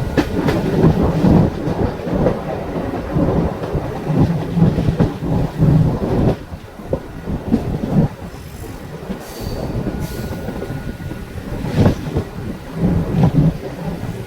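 Mumbai suburban local electric train running along the track: a loud rumble and rattle of wheels over the rails with irregular knocks, easing somewhat about halfway through.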